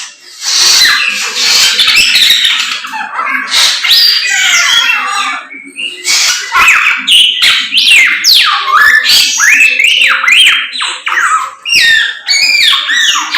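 Chinese hwamei (samyong) in full, loud song: a continuous stream of varied whistled phrases with rapid rising and falling pitch sweeps and quick trills.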